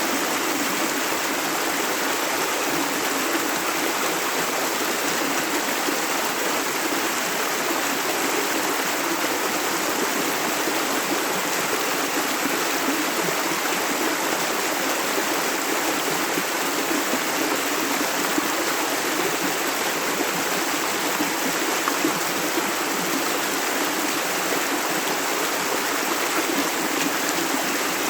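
Steady rushing of a clear river stream, water flowing over rocks.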